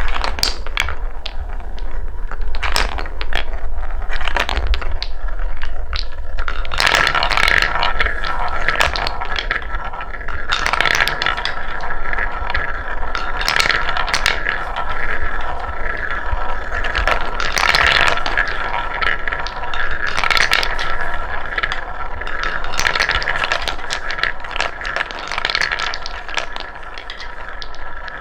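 Balls rolling and clattering along a wooden marble run track: separate clicks and knocks for the first six seconds or so, then from about seven seconds in a continuous rolling rattle with a steady ringing tone over it. A low hum runs underneath.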